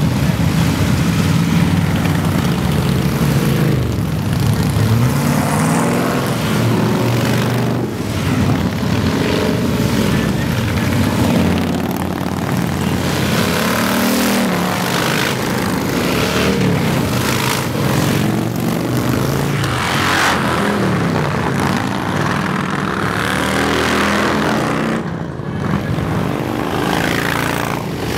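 A stream of Harley-Davidson motorcycles (hogs) rumbling past. Their engines keep rising and falling in pitch as bike after bike revs and goes by, with a short lull near the end.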